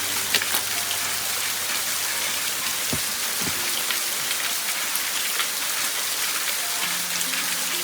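Steady, dense hiss of falling water, with a few faint clicks about half a second in.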